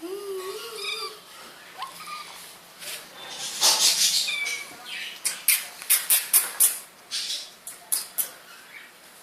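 Kitten meowing: one wavering call about a second long at the start and a short, higher one about two seconds in. It is followed by louder rustling and a quick run of sharp clicks and taps.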